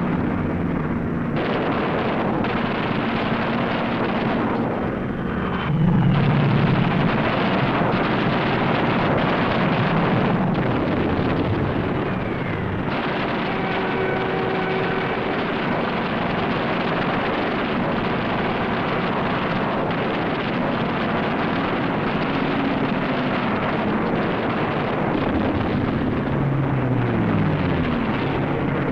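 Engines of propeller-driven fighter aircraft running in a dense, steady drone, with the engine pitch gliding near the end as a plane passes.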